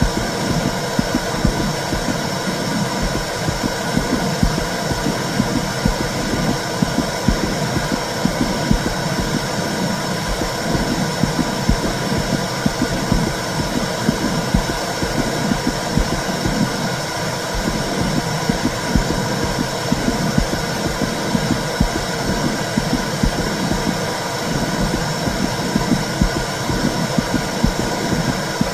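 Womb sound for soothing a baby: a steady whooshing noise with a low, uneven throbbing underneath, the in-utero sound of blood flow used to calm a baby to sleep.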